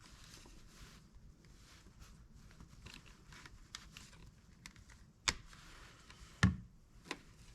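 Faint scattered clicks and taps from handling a phone and the endoscope plugged into it, with two sharper clicks about five and six and a half seconds in.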